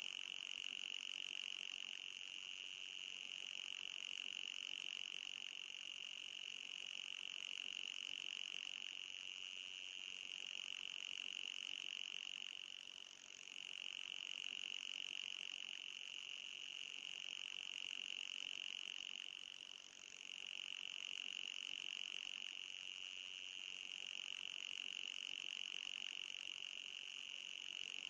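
Anti-mosquito repellent tone: a steady, high-pitched electronic tone with a fainter band above it, meant to drive mosquitoes away. It dips briefly twice, about halfway through and again some seconds later.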